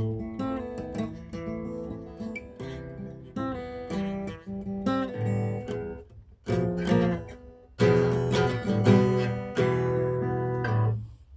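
Acoustic guitar strumming chords, with a couple of brief pauses, ending a little before the end.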